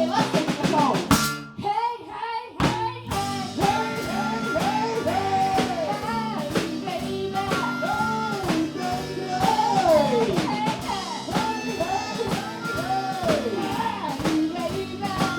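Live blues band playing: lead guitar bending and sliding notes over drums and bass, with a brief break about two seconds in.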